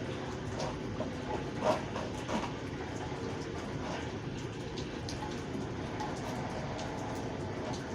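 Steady rain with scattered drips and taps, over a low steady hum; two short, louder knocks come about two seconds in.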